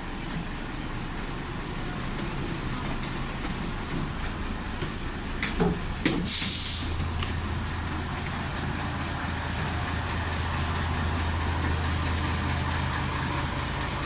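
Large vehicle standing with a steady low hum. A couple of clicks come, then about six seconds in a short sharp hiss of compressed air from its air brakes, after which the hum grows a little stronger.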